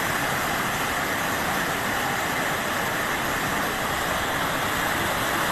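Heavy rain pouring down in a storm, a steady unbroken hiss.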